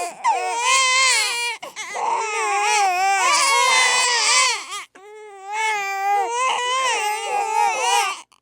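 Babies crying hard: long, high, wavering wails broken by short gasps for breath.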